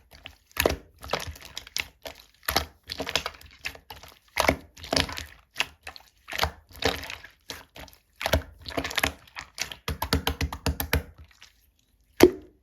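Clear slime being squeezed, stretched and poked by hand, giving sharp clicks and crackly pops from trapped air bubbles. They come in irregular clusters, with a fast run of clicks near the end.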